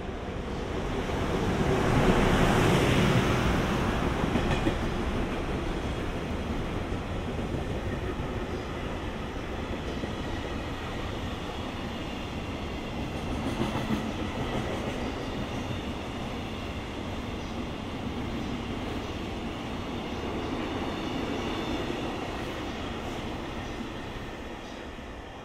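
Freight train hauled by an EH200 electric locomotive running through a station: a continuous rumble of the train passing, loudest about two to three seconds in, then the long string of freight wagons rolling by and fading near the end.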